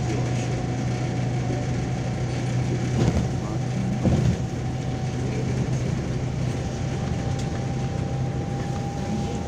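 A MAZ-203 city bus running, heard from inside the cabin: a steady low engine and road drone with a thin constant whine over it, and two short knocks about three and four seconds in.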